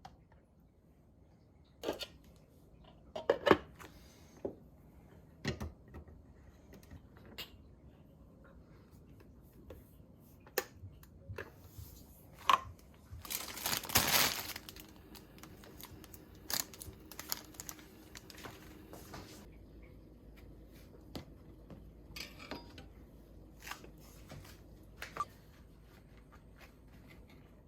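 Scattered light clicks and knocks of things being handled, with a rustling, crinkling burst lasting about a second roughly halfway through.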